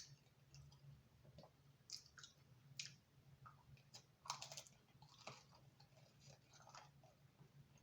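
Faint close-up chewing of thin crispy-crust pizza: soft wet mouth clicks scattered irregularly, the loudest cluster about halfway through.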